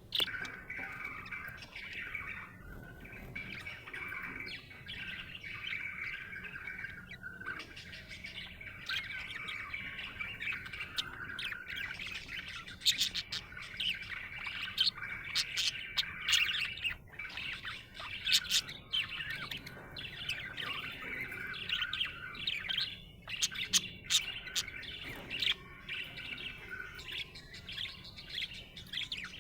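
Budgerigar chattering and warbling, a steady stream of soft chirps with sharp, louder clicks and chirps coming thicker from about the middle on.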